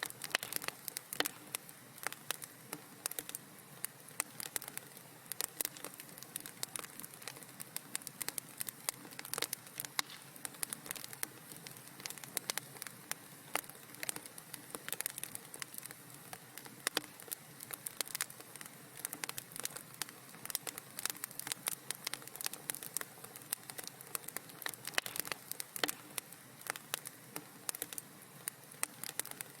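Wood fire crackling in a fireplace: a dense, irregular stream of sharp pops and snaps over a soft steady hiss.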